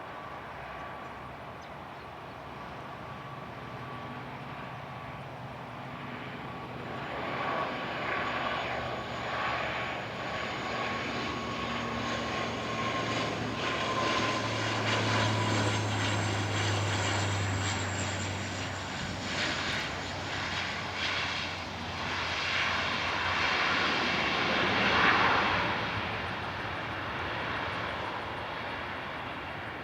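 De Havilland Canada Dash 8 Q400 turboprop landing and passing by, its engines and propellers giving a steady low drone with a whine that slowly falls in pitch. The sound builds from about a quarter of the way in, peaks near the end, then fades.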